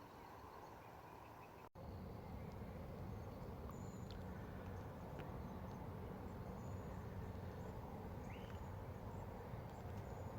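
Faint outdoor ambience: a steady low rumble with a few short, high bird chirps scattered through it, one of them a quick rising note late on.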